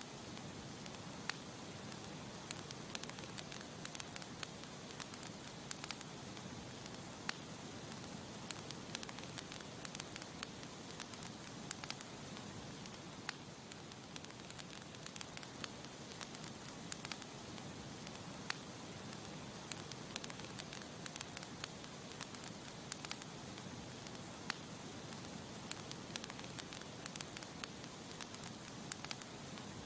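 Campfire burning with a steady hiss and frequent sharp crackles and pops from the burning wood.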